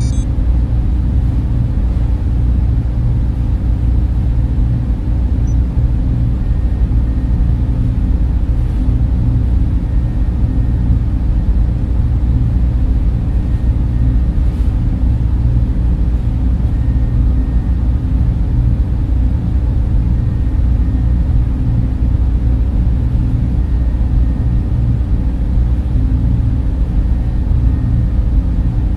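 Server room cooling fans running in a steady, low drone, with faint whining tones above it.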